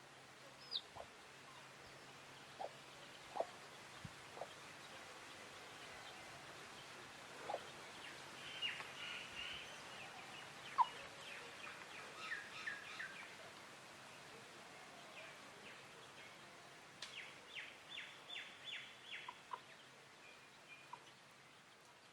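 Wild birds chirping at scattered intervals over a faint background hiss, with a run of about six quick, evenly spaced notes near the end.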